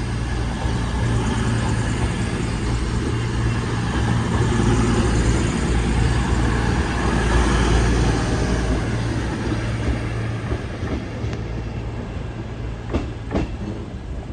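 An Avanti West Coast diesel passenger train, a Class 221 Voyager unit, runs over a level crossing with its diesel engines humming low and steady. The sound fades after about ten seconds as the train moves away, and a few wheel clicks over the rail joints come near the end.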